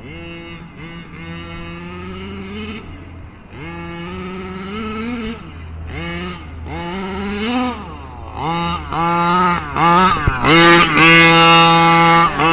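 HPI Baja 5B's two-stroke engine through a Jet Pro tuned exhaust, revved in repeated throttle blips that rise and fall in pitch. It gets louder in the second half and ends in a sustained high-revving run.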